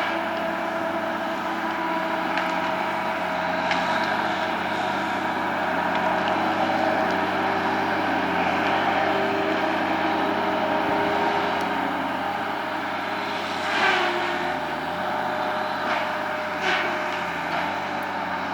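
An engine running steadily throughout, with a few short louder sounds around 14 seconds in and again near 17 seconds.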